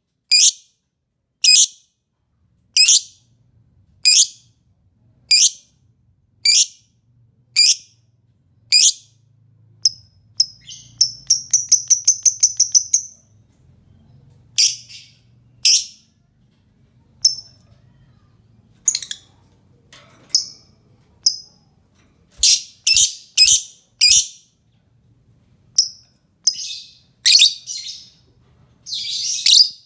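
Lovebird calling: sharp, shrill single chirps about once a second, then a rapid chattering run of a dozen chirps, then scattered chirps and quick clusters of calls.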